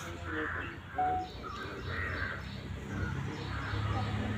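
Repeated bird calls, short and rough, coming every half second or so over a low steady rumble.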